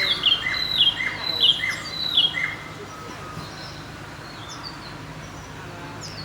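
A bird calling a quick series of repeated chirping notes, about three a second, that stops about two and a half seconds in, followed by faint scattered chirps from other birds.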